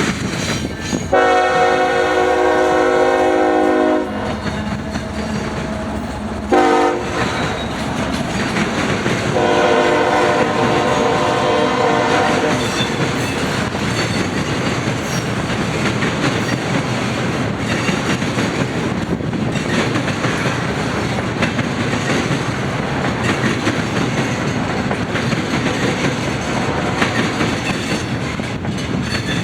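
Train horn sounding a long blast, a short one and another long one, the end of the grade-crossing signal, over the steady rumble and clickety-clack of the train rolling past. After the horn stops, the passing train's rumble and wheel clatter continue.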